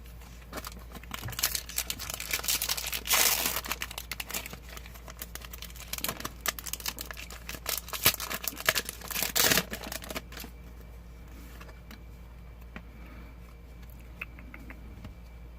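Foil Pokémon booster pack wrapper crinkling and tearing as it is opened, the cards inside handled, for about ten seconds; after that only a few faint clicks.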